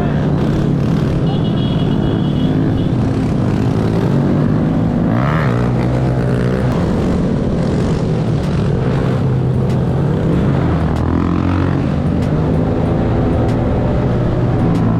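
Several mini bike engines running together, their pitch rising and falling as they rev, with a rise and fall in pitch about five seconds in.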